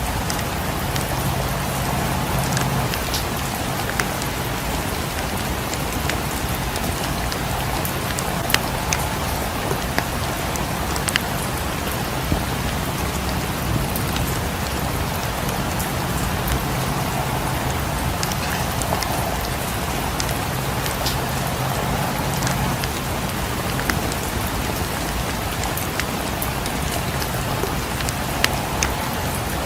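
Steady rain, with scattered sharp pops and crackles of a wood fire mixed in.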